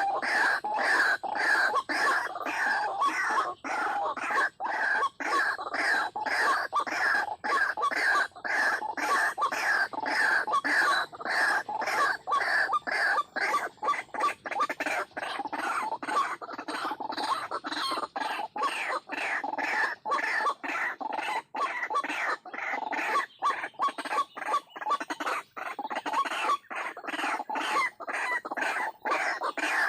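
White-breasted waterhen (ruak-ruak) calling: a fast, even series of repeated calls, about two a second, without a break.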